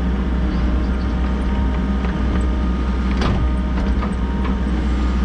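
Volvo EC60E mini excavator's diesel engine running steadily, with a few short knocks, the loudest a little past three seconds in.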